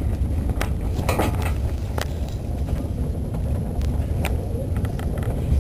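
Narrow-gauge train running along the line, heard from aboard: a steady low rumble with a few sharp clicks.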